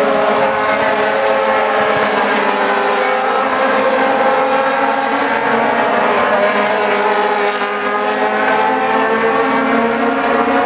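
A pack of Aussie Racing Cars running at high revs, their Yamaha 1300 cc four-cylinder motorcycle engines overlapping in a steady, loud drone, with pitches drifting up and down.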